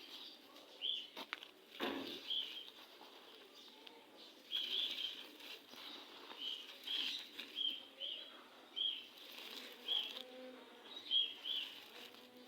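Gritty red sand crumbling, with a couple of sharp crackles in the first two seconds. Over it, a small bird chirps repeatedly with short, high chirps at a steady pitch, about a dozen of them.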